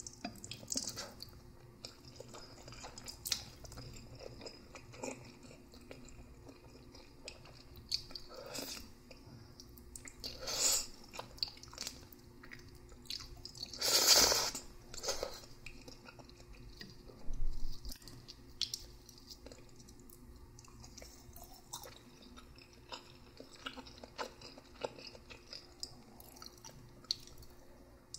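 Close-miked chewing and wet mouth sounds of a person eating noodles, with scattered soft clicks and a few louder bursts, the loudest about halfway through.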